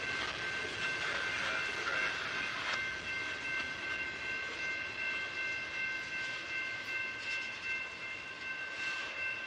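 Freight train cars, open hoppers and autoracks, rolling past on the track in a steady wash of wheel and car noise, with a steady high whine of a few pitches held throughout.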